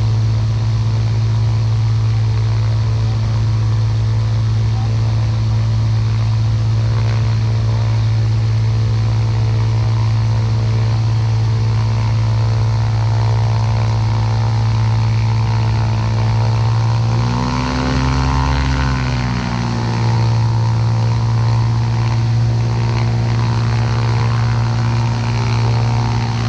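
Ultralight aircraft's engine and propeller running steadily, with a brief dip in engine speed about seventeen seconds in that recovers a couple of seconds later.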